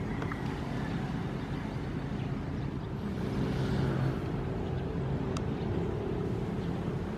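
Ocean waves: a steady low surf rumble, with one wave washing in more loudly about halfway through.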